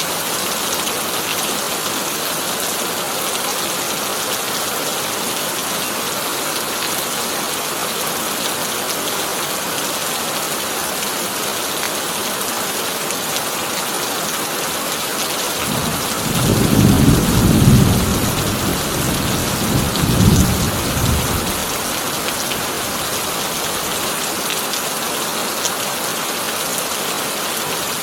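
Heavy rain drumming steadily on a corrugated tin roof. A roll of thunder rumbles in a little past halfway, swelling twice over about five seconds before fading back under the rain.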